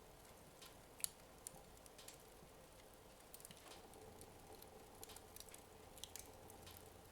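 Faint, sparse crackling and ticking of a wood fire in a fireplace, burning low near the end of its burn, with one sharper crack about a second in.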